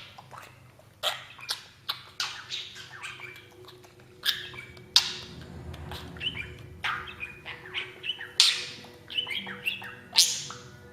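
Budgerigar chirping and chattering in many short, sharp calls at an uneven pace.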